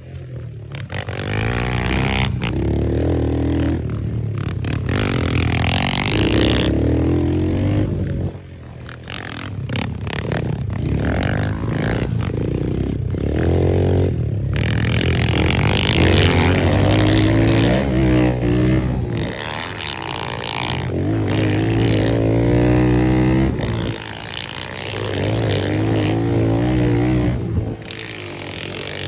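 Small dirt bike / pit bike engine being ridden, revving up and easing off again and again, its pitch climbing in repeated sweeps, with brief drops in power about eight seconds in and again near the end.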